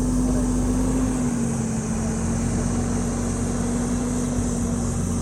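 JCB ecoXcellence backhoe loader's diesel engine running steadily, its pitch dipping slightly about a second in.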